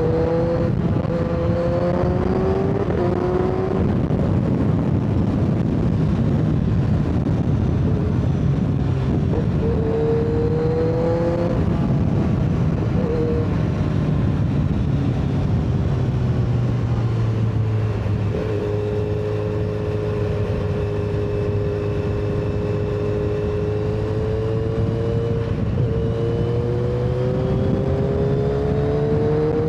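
Superbike engine under way at speed, its note climbing in each gear and dropping at several shifts, holding steady for a long stretch in the middle, over a constant rush of riding noise.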